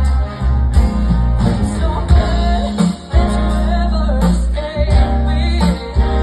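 Big band playing live, with a woman singing the lead over a heavy bass line; the music drops back briefly about three seconds in.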